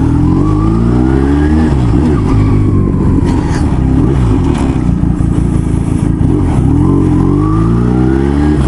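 Motorcycle engine accelerating under way, its pitch climbing, dropping back at a gear change and climbing again several times.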